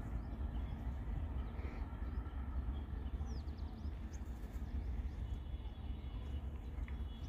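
Low, steady rumble of a passenger train running away into the distance, with a few faint bird chirps about three seconds in.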